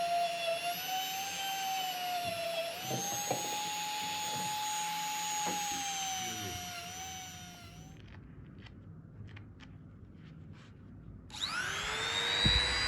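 Small high-speed electric power tool motor whining steadily, its pitch rising a little and sagging again as the load on it changes. It winds down and stops about two-thirds of the way through, leaving a few faint clicks, then spins up again with a rising whine near the end.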